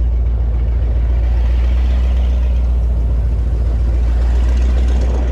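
The 2002 Donzi Classic 22's engine idling, a steady low-pitched running sound.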